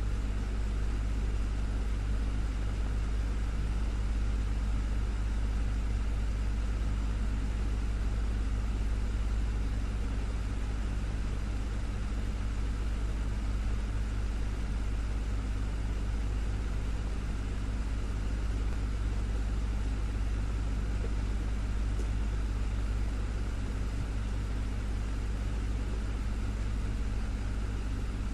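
Desktop fan running steadily: a constant low hum and drone with a light even whoosh of air, unchanging throughout.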